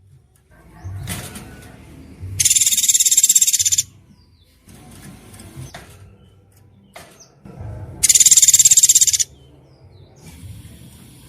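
Two loud, rapidly pulsing high-pitched rattling trills, each just over a second long and about five seconds apart, with fainter chirps and calls between them: songbird 'tembakan' call bursts used as mastering material for a white-rumped shama.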